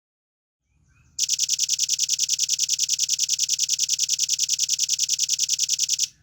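Velvet-fronted nuthatch giving a long, rapid trill of high, evenly spaced notes, about ten a second, starting about a second in and lasting some five seconds before stopping abruptly.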